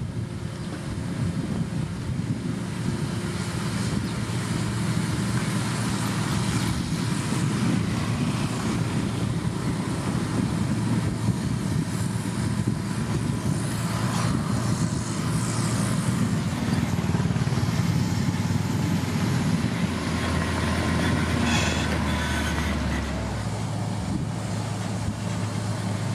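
Heavy road-construction machine's diesel engine running steadily, its pitch shifting about twenty seconds in.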